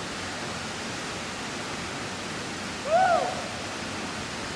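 Tall waterfall plunging, a steady rushing of falling water. About three seconds in, a single short hoot-like call rises and falls in pitch.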